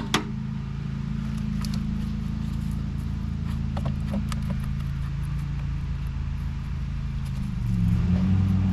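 Lawn mower engine running steadily in the background, getting louder near the end, with a few sharp clicks and light knocks from parts being handled nearby.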